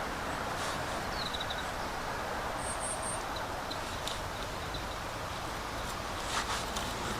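Outdoor ambience: a steady background rush with a quick run of high chirps about a second in and three short, very high pulses near the middle, typical of a small bird or insect, plus a few faint clicks.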